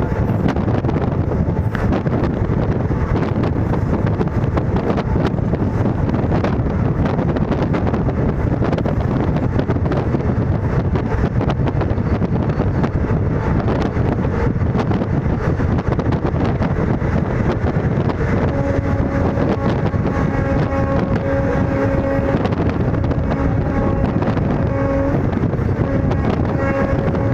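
Indian Railways ICF passenger coach running at about 110 km/h: a loud, steady rumble of wheels on track mixed with wind rush and scattered clicks. A steady pitched hum joins about two-thirds of the way in and breaks off briefly a few times.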